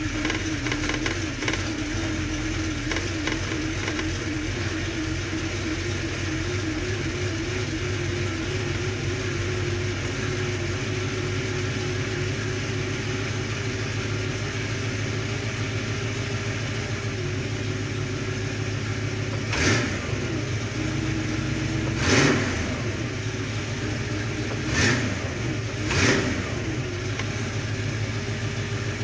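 1966 Ford Mustang engine idling roughly soon after start-up, a steady running note broken by four short revs in the second half.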